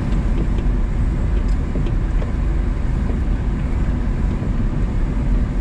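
Truck driving over snow-covered ice, heard from inside the cab: a steady low rumble of engine and tyres with a few faint clicks.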